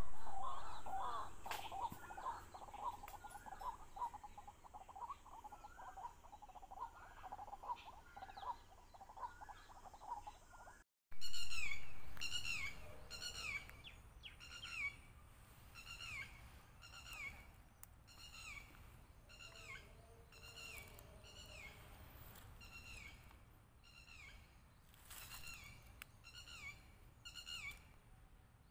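Wild birds calling. In the first part several birds chirp together. After a short break about eleven seconds in, one bird repeats a short, high, descending whistled note roughly once a second.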